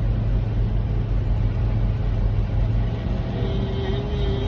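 Steady low drone of a semi truck's diesel engine and road noise heard inside the cab while cruising, with a faint thin whine coming in about three seconds in.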